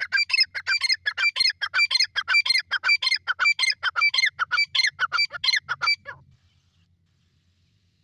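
Francolin (teetar) calling: a fast run of harsh, repeated notes, about five a second, that stops abruptly about six seconds in.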